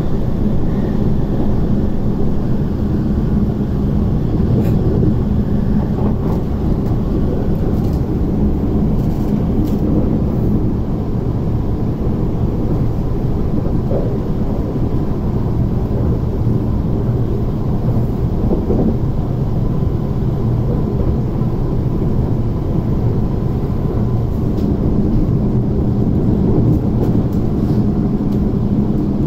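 Inside a 12-car SP1900 (IKK-train) electric multiple unit running at speed: a steady, loud rumble of wheels on rail and running gear, with a faint steady high tone throughout.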